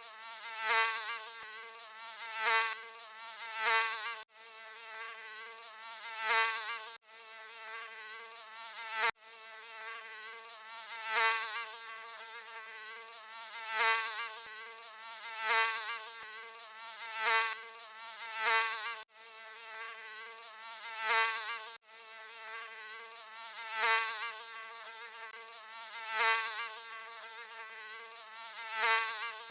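Mosquito buzzing: a high, whining drone that swells loud and fades again about every two seconds, as if flying past the ear over and over. Several times the sound cuts off suddenly and picks straight up again.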